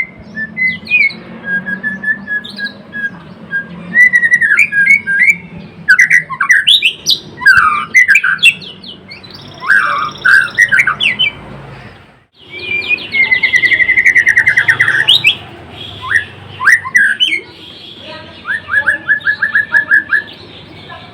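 White-rumped shama (murai batu) singing a long, varied run of loud whistled phrases and fast trills, ending with a quick series of repeated notes.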